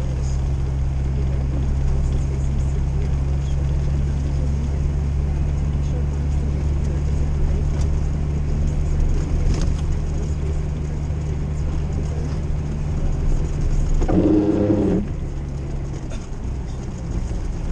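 Old Jeep's engine running steadily, heard from inside the cabin while driving on snow-covered road. A brief pitched sound comes about fourteen seconds in, and the engine note drops soon after.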